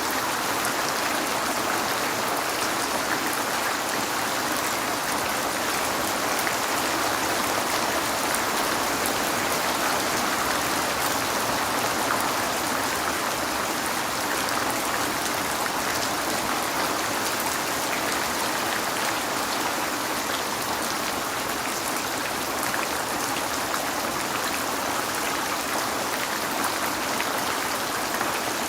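Steady rain falling on a window: an even, unbroken hiss with fine scattered drop taps.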